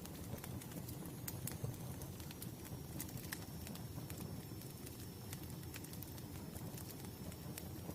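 Wood fire crackling: irregular sharp snaps and pops over a low, steady sound of burning.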